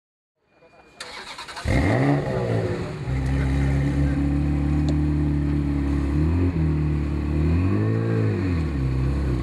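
Ferrari 360 Spider's V8 with sport headers, high-flow catalysts and a Maxflo muffler cranking over on the starter and catching about a second and a half in with a rev flare, then settling to a steady idle. Near the end it is given one short throttle blip that rises and falls.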